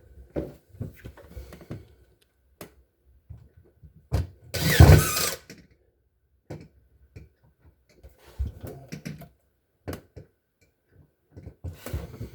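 Scattered knocks and clunks of parts being handled and fitted on a refrigerator, with one loud scraping clatter and thump about five seconds in.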